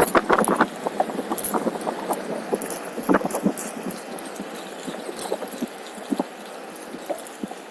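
Onewheel rolling along over a steady low rush, its tyre making scattered irregular clicks and knocks on the ground.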